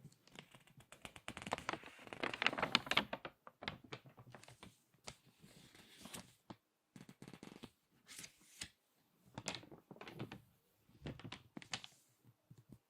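Crinkly magazine pages being squeezed and turned, making dense paper crackling. It is loudest in a long squeeze about two to three seconds in, followed by shorter separate crinkles and rustles.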